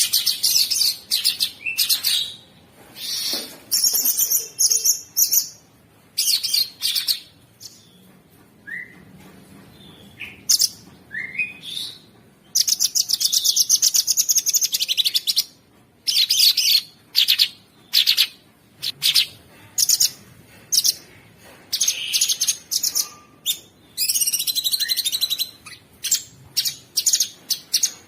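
Cucak sungkok singing: bouts of harsh, rapid, high chattering trills with short gaps between them, one long unbroken trill about halfway through, and a couple of short rising whistles.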